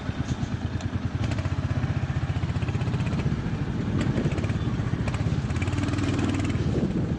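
Motorcycle engine running steadily while riding, its firing heard as a fast, even pulsing.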